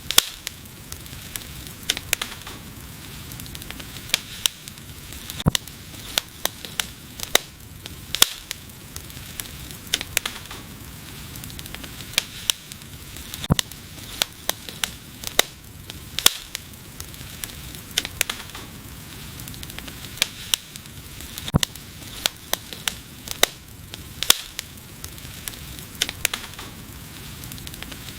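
Wood fire burning, with frequent irregular sharp pops and crackles over a steady soft hiss.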